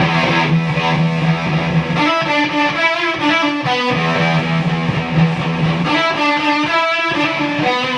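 Electric guitar through a hand-wired Octavia-clone fuzz pedal with the fuzz turned up and the octave effect off, into a clean valve combo amp: a heavily fuzzed riff. It opens on a held low note, moves into quicker notes, and plays the phrase twice.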